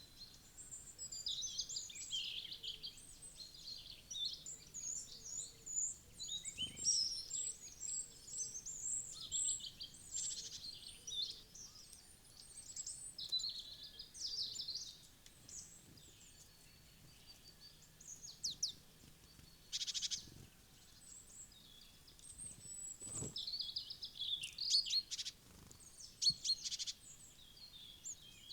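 Several small woodland songbirds chirping and calling over one another, in quick overlapping phrases with pauses, and about three sharp knocks scattered through.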